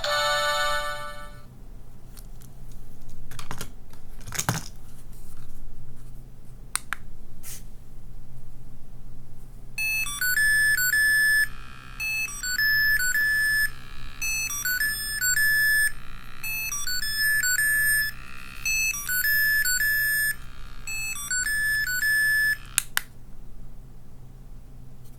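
Small electronic sound toy from a capsule machine: a few plastic clicks as it is handled, then a tinny electronic beeping jingle that repeats a short phrase about six times before stopping. At the very start, the end of an earlier electronic tone fades out.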